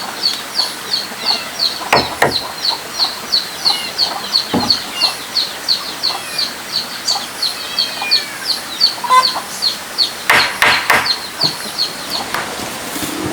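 A chick peeping steadily: short, high-pitched calls that slide down in pitch, about three a second. Other birds call here and there, and there are a few knocks, the loudest a cluster of them near the end.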